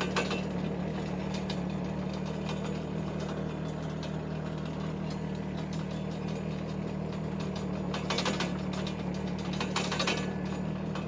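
Mini excavator travelling on its tracks in high-speed travel mode: a steady engine hum under continuous clattering and ratcheting from the tracks and running gear, with louder rattling bursts about eight and ten seconds in. The engine is at a low throttle setting, too low for full travel speed, and is starting to bog a little.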